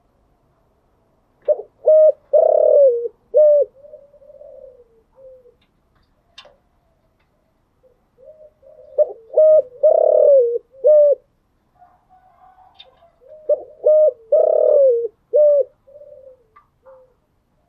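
Spotted dove cooing: three loud song phrases about six seconds apart, each a few short clipped coos followed by a longer swelling coo, with softer, quieter coos in between.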